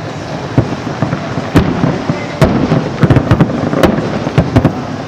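Aerial fireworks going off in an irregular string of sharp bangs. They come sparse at first, then thicker from about a second and a half in.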